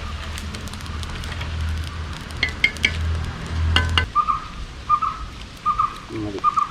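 A few sharp metal clinks of a utensil against a cooking pot over a low rumble of wind on the microphone, which stops about four seconds in. After that a bird repeats a short call several times, a little under a second apart.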